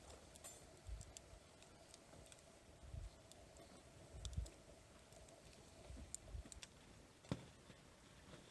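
Near silence with faint scattered clicks and a few soft low thumps, over a faint steady hum that stops about seven seconds in.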